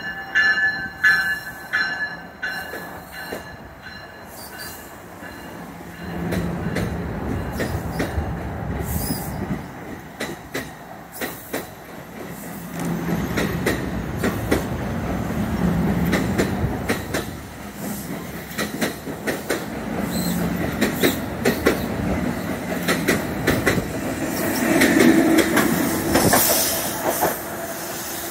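NJ Transit Bombardier Multilevel push-pull train pulling out past the platform, its wheels rumbling and clacking over the rail joints, with a high squeal in the first few seconds. The rumble grows from about six seconds in and is loudest near the end as the ALP-46 electric locomotive at the rear goes by.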